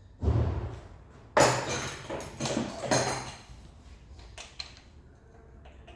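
Workshop handling noises of metal engine parts and tools: a dull thud just after the start, then several clattering, scraping bursts, and a few light clicks after about four seconds.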